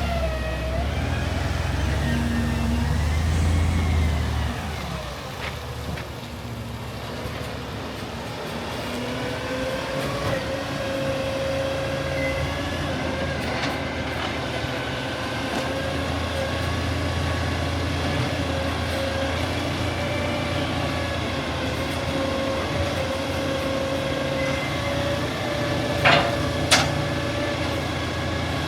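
Garbage truck engine running, heavy for the first few seconds and then easing off, with a steady whine from partway through and two sharp bangs about half a second apart near the end.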